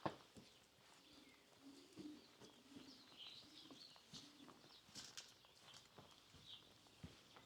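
Faint, sparse footsteps on a village street, the sharpest one right at the start. Low repeated cooing, like pigeons or doves, and small birds chirping sound in the background.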